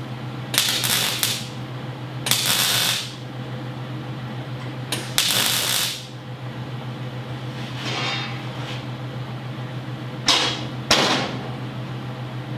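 Wire-feed welder laying short tack welds on steel plate: about six brief bursts of crackling sizzle, a couple of them fainter, over a steady low hum.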